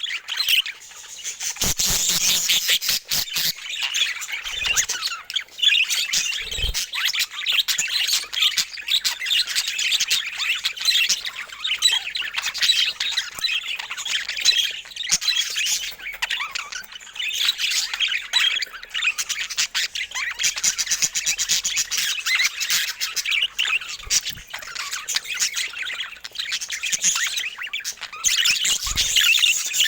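Budgerigars chattering and chirping continuously, with many short squawks.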